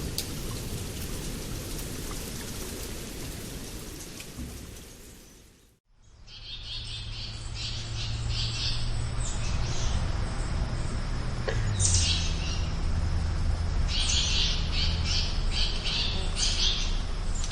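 Steady rain hiss fading out over the first six seconds, then birds calling in repeated clusters of short, high chirps over a low, steady background rumble.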